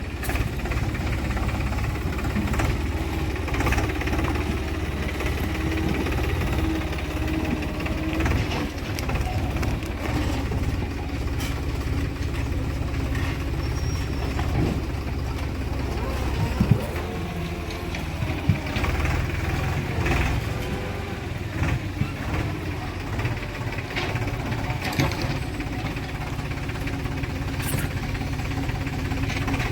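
Diesel engine of a JCB 3DX backhoe loader running steadily while it works, with a few sharp knocks partway through.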